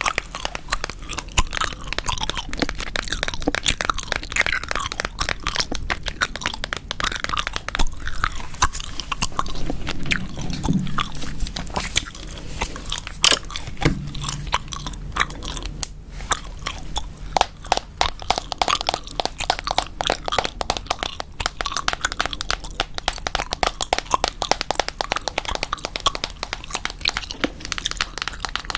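Gum chewed close to the microphone: a continuous run of quick, close clicks and pops.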